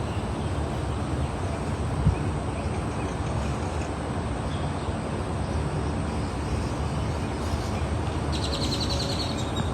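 Steady outdoor background rumble and hiss, with a single thump about two seconds in and a small bird trilling rapidly near the end.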